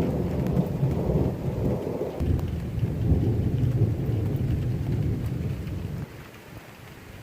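Long rolling rumble of thunder over steady rain, dropping away suddenly near the end to leave only the rain.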